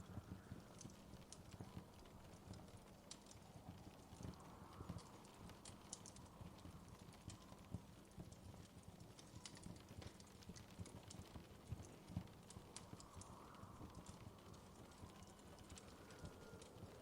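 Wood fire crackling softly in a fireplace: irregular small crackles and a few louder pops over a faint low rumble of the flames.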